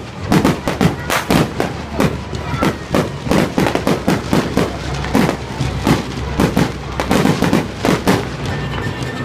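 Fireworks display with shells and firecrackers bursting in rapid succession, several bangs a second.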